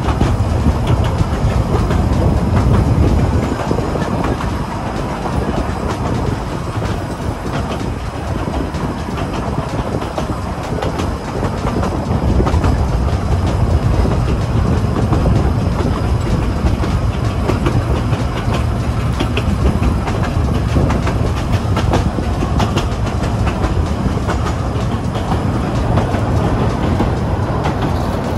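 Kurobe Gorge Railway narrow-gauge trolley train running along the track: a steady rumble of wheels on rails with scattered clicks and clatter.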